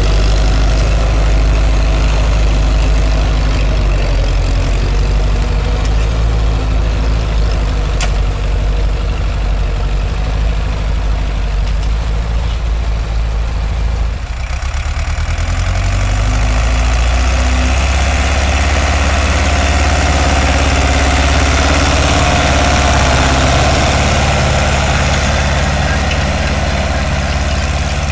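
Ursus farm tractor's diesel engine running steadily; about halfway through the sound changes abruptly, to a different engine note with more high-pitched noise.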